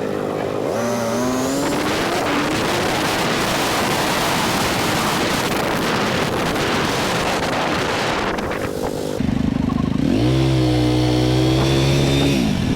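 Honda Rebel 300's single-cylinder engine pulling up through the revs, then covered by a steady rush of wind and road noise while riding at speed. About nine seconds in the rush drops away, leaving a steady low engine note that rises again near the end.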